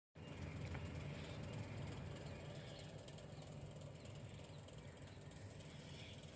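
Faint outdoor ambience: a steady low rumble under a light hiss, with a few soft, higher sounds. It starts after a split-second gap.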